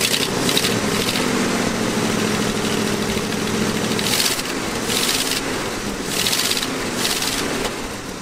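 Ford 460 V8 with a four-barrel carburetor idling, still missing on one dead cylinder. Several short bursts of louder hiss come as the throttle is worked by hand at the carburetor.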